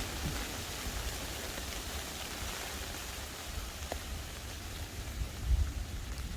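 Steady outdoor hiss with uneven low rumbling and a few faint clicks, and a louder low thump about five and a half seconds in.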